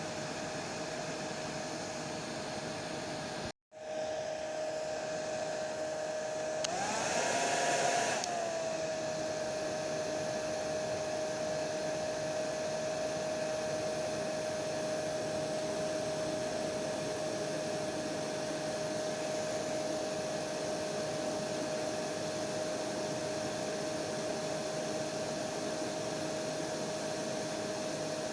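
Electric hair dryer running steadily, a rushing blow with a steady whine from its motor. The sound cuts out for a split second a little over three seconds in, and a few seconds later the whine briefly rises in pitch and gets louder before settling back.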